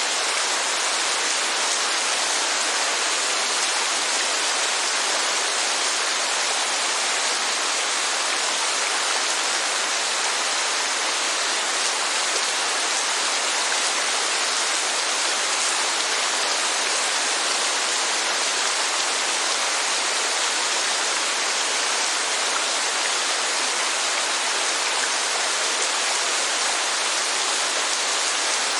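Rain falling steadily: an even, unchanging hiss of water.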